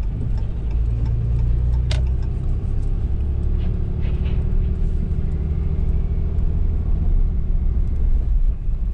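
Motor vehicle engine running steadily at a low drone while driving, with a single sharp click about two seconds in.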